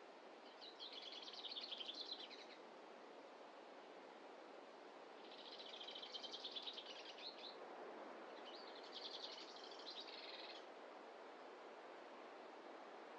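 A songbird gives three rapid, trilled songs, each about two seconds long, over a faint, steady rushing background.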